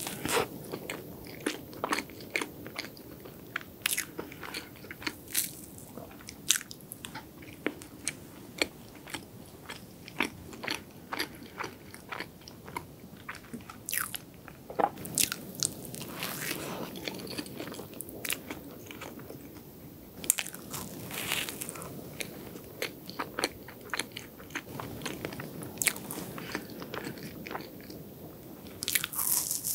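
Close-miked chewing of a soft chocolate sponge roll filled with white cream, full of sharp mouth clicks and smacks at an uneven pace.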